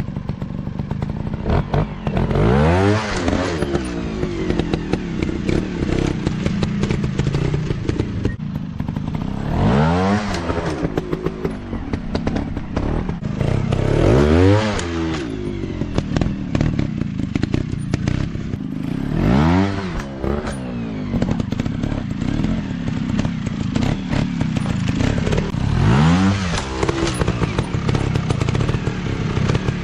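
Dirt bike engines running, with five revs that rise and fall in pitch, spaced about five seconds apart, over steady engine noise and clattering.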